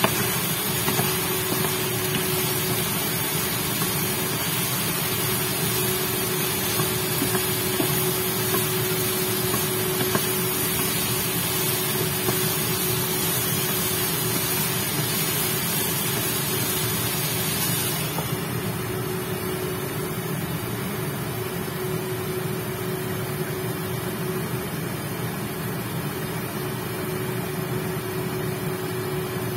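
Chicken pieces sizzling in a pan on an induction cooker, stirred with a wooden spatula, over a steady hum from the cooker. About 18 seconds in the hiss of the sizzle turns sharply duller and quieter, as the pan is covered with its glass lid.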